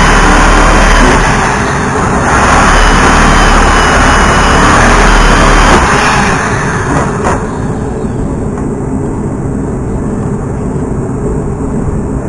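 Power grinder grinding the paint off an old metal sign, a loud steady grinding with a faint high whine. About six seconds in the high grinding sound drops away, leaving a duller, lower noise.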